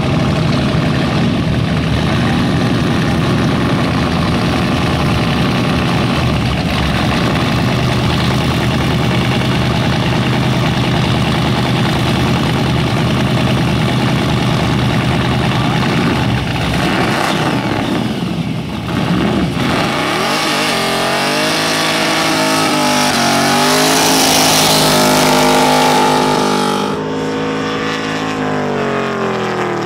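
Supercharged Holden Commodore engine running hard in a burnout: a steady loud engine note for roughly the first half, then the revs rise and fall again and again, with hissing tyre noise from the spinning rear tyres at its height, before the engine drops away near the end.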